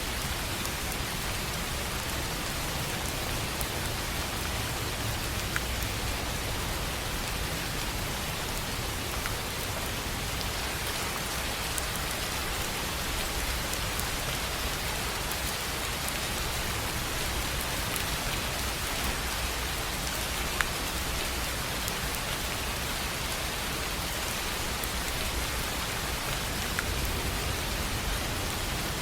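Steady rain falling on a tin roof: an even hiss with scattered sharper drop ticks.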